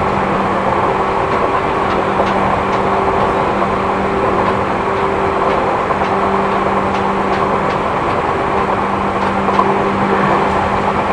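Cabin running noise of a Seibu New 2000 series electric train at speed: a steady rumble of wheels on rail under a constant motor hum, with faint irregular ticks. The recordist notes wheel-flat noise in this car.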